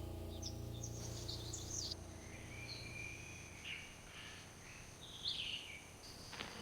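Small birds chirping and whistling faintly, in short scattered calls with one longer level whistle about two seconds in, over a soft background hiss. Low steady tones fade out during the first two seconds.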